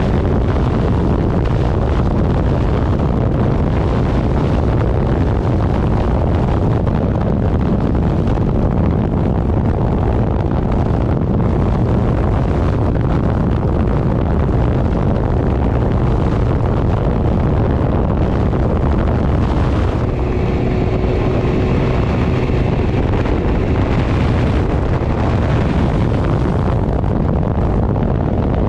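Heavy wind noise rushing over the microphone of a moving vehicle at speed, with engine and road noise underneath. About twenty seconds in, a faint steady tone joins for a few seconds.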